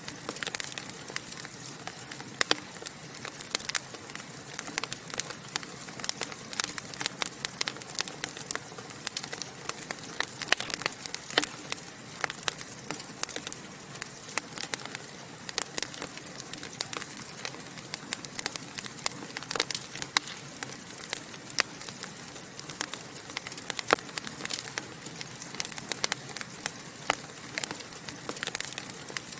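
Wood fire in a fireplace crackling and popping: dense, irregular sharp snaps over a steady soft hiss.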